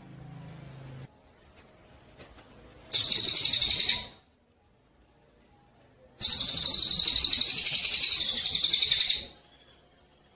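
Songbird singing in two loud bursts of rapid, buzzy high-pitched trilling, the first about a second long and the second about three seconds, with faint thin high notes in the gaps.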